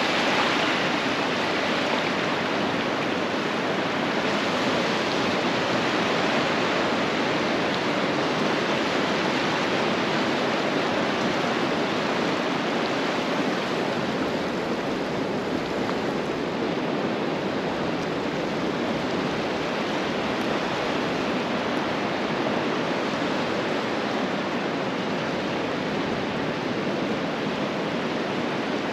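Ocean surf washing onto a beach: a steady, continuous rush of water with no separate wave crashes standing out.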